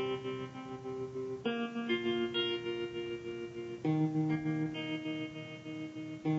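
Background music: a plucked guitar playing slow, ringing chords that change every couple of seconds.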